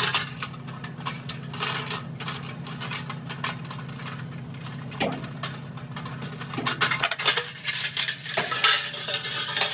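Metal parts clinking and rattling as a dryer heating element and its sheet-metal housing are handled, over a steady low hum; the clinks come thicker in the last few seconds.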